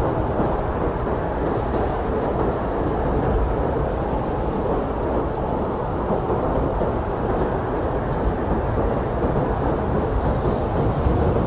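Blizzard wind blowing steadily: a dense, low rushing noise with a deep rumble underneath and no separate gusts or whistles.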